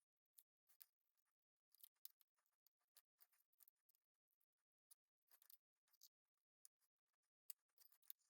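Faint, irregular scraping and rubbing strokes as old foam-surround glue residue is cleaned off a subwoofer speaker cone.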